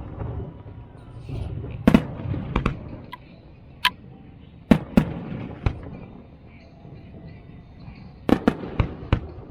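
Fireworks going off: a series of sharp bangs at irregular intervals, coming in clusters around two seconds in, near the middle and again near the end.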